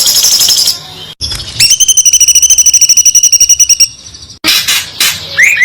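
Songbird song in high-pitched, rapid trills: a fast chatter at first, then after a short gap a long, even trill of about fifteen notes a second lasting a couple of seconds, and more calls near the end.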